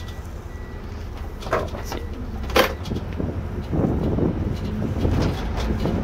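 Irisbus Récréo II coach's Iveco Cursor diesel engine running, heard from the driver's seat as a steady low rumble, with two short knocks in the cabin. The engine sound grows louder about four seconds in.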